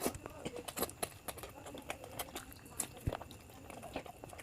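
Close-up chewing and mouth noises of a person eating biryani, a run of irregular short smacks and clicks.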